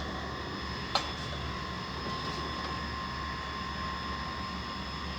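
Steady mechanical hum with a low drone and a high whine, with one sharp click about a second in.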